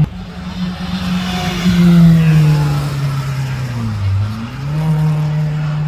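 Rally car engine pulling hard through a bend, loudest about two seconds in. Its pitch drops about four seconds in as the driver comes off the throttle, then rises again as it pulls away.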